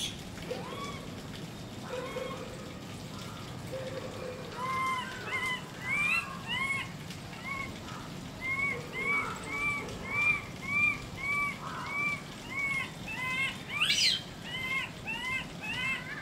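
Bird-like chirping: a rapid series of short, arched chirps, about two to three a second, with one brief sharp squeal about fourteen seconds in.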